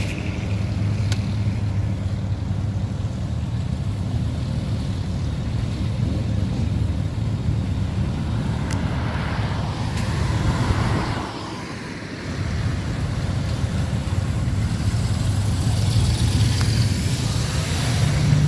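A car engine running with a steady low rumble, fading briefly about eleven seconds in.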